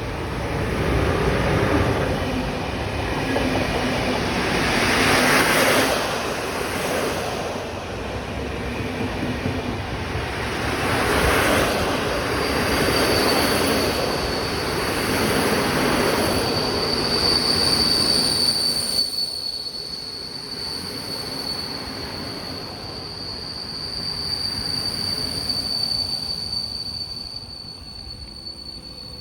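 Electric locomotive-hauled passenger train pulling into a station, its wheels rolling over the rails in swelling waves as the locomotive and carriages pass. From about twelve seconds in a steady high-pitched squeal sets in as it brakes, and the rolling noise dies down over the last third as the train slows.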